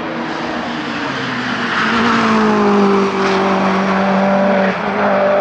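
Mitsubishi Evo 8 RS hillclimb car with its Eggenberger 2-litre turbocharged four-cylinder engine running hard as it passes, growing louder, its engine note sliding slowly down in pitch. The note changes abruptly near the end.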